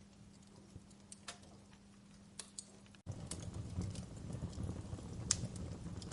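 Wood fire in a fireplace crackling, with scattered sharp pops and snaps of burning logs. About three seconds in the sound cuts abruptly to a louder, fuller burn with more low sound under the crackle.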